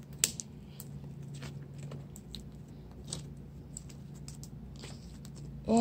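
Hands squeezing and kneading stiff, rubbery mixed slime, making scattered small clicks and squishes over a steady low hum.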